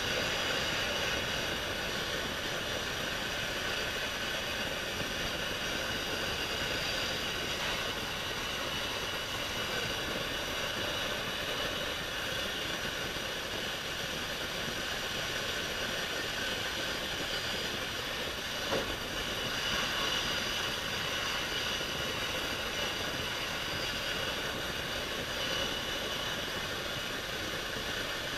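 Heat gun blowing steadily with a fan whine and airflow hiss, heating the aluminium crankcase half so a stubborn bearing will come free. One light knock about two-thirds of the way through.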